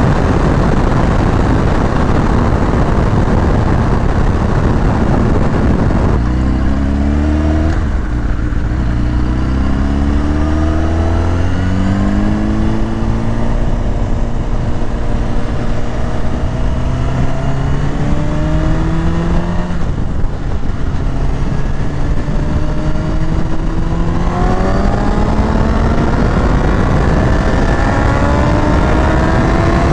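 Sportbike engine running under load at speed, with heavy wind noise on the microphone. The engine pitch climbs slowly, drops about twenty seconds in, then climbs again.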